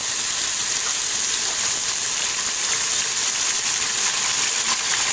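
Browned onions and freshly added garlic-ginger paste sizzling in hot oil in a pressure cooker: a steady, high, hissing sizzle.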